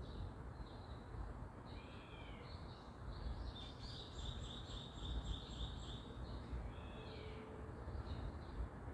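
Songbirds calling: scattered short chirps and sweeping calls, with a quick run of repeated notes lasting about two and a half seconds near the middle, over a steady low background rumble.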